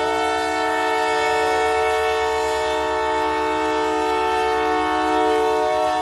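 Locomotive air horn sounding one long, steady, multi-note chord as the train arrives.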